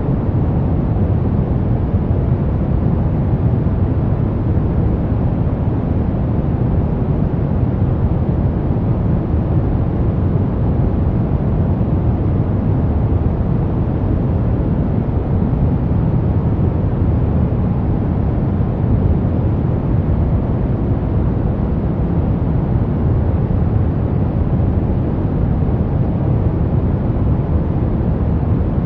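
Steady brown noise: an even, unchanging rumble-like hiss weighted heavily toward the low end, with little above a few kilohertz.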